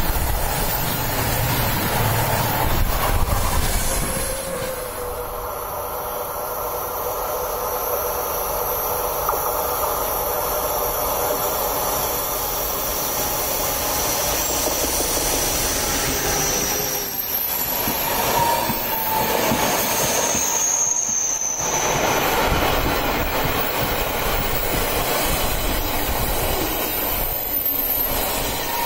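Freight trains passing close by on electrified main line: loaded wagons rumbling and clattering over the rails. Then an electric locomotive pulls a train of car-carrier wagons round a curve, with thin, high wheel squeal coming and going.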